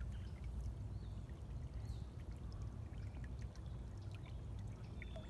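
Small stream of water running, a steady sound with no pauses.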